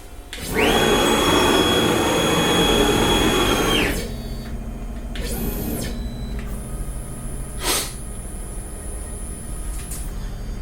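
A small electric power tool motor spins up, runs with a steady high whine for about three seconds, and spins down. A single sharp click follows near the end.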